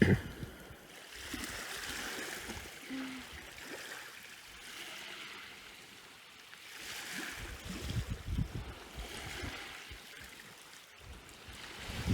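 Waves washing in on a shoreline, a hiss that swells and fades every few seconds, with low rumbles of wind on the microphone, loudest near the end.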